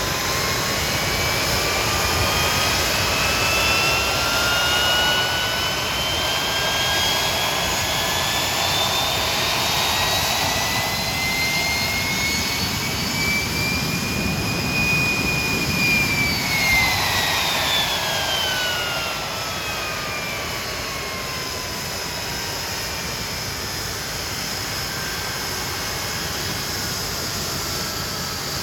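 Hawker Siddeley Nimrod's Rolls-Royce Spey jet engines running, their whine climbing slowly in pitch for about fifteen seconds as they spool up, then falling away over a few seconds as they are throttled back, leaving a quieter steady engine noise.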